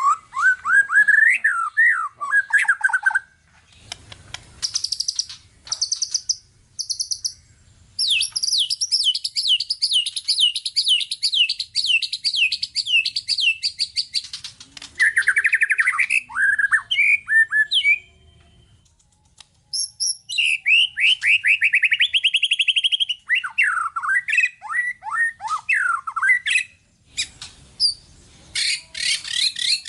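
White-rumped shama (murai batu) singing a long, varied song packed with mimicked phrases: fast runs of repeated sweeping notes and trills, broken by a few short pauses.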